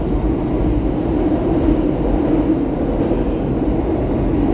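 SEPTA Market–Frankford Line subway train running between stations, heard from inside the car: a steady, loud running rumble with a low drone.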